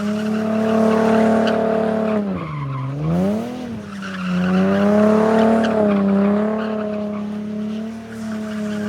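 A 2011 Nissan 370Z Nismo's 3.7-litre V6, breathing through Tomei downpipes and catback, held at high revs in controlled donuts with the rear tyres squealing and sliding. About two and a half seconds in the revs drop sharply and climb back, then stay high.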